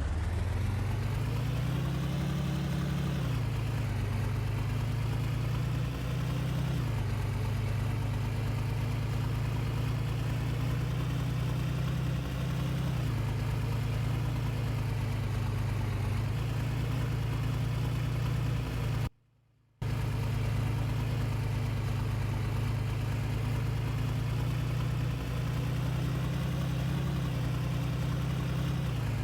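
Vehicle engine running steadily, its pitch rising and falling a little, with a brief cut to silence about two-thirds of the way through.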